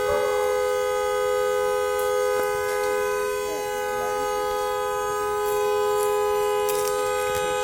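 A burning pickup truck's horn blaring without a break on two steady pitches, stuck on as the fire gets into the truck's wiring.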